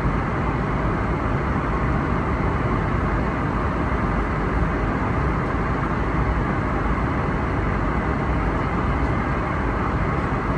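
Steady airliner cabin noise inside an Airbus A321neo: an even rush of airflow and engine sound that holds at one level throughout.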